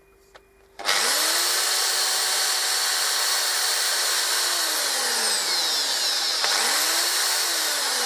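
Electric drill boring shallow holes for glue: the motor spins up about a second in, runs at speed for a few seconds and winds down, then starts again about six and a half seconds in and winds down near the end.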